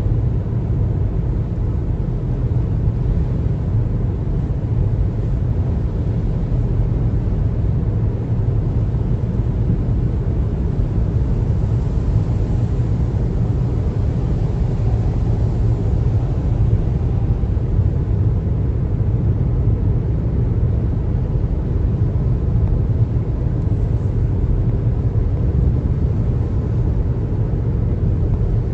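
Steady road and tyre rumble of a car driving at a constant speed, low and even, with no distinct events.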